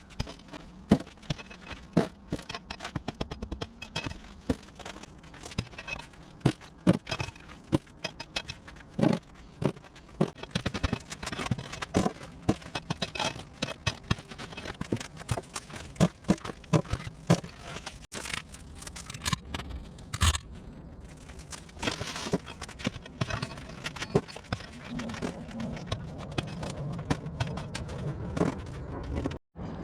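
Broken mortar and rubble being scraped and scooped out of the bed beneath lifted paving slabs with a hand tool: irregular scrapes, knocks and gritty clinks of stone.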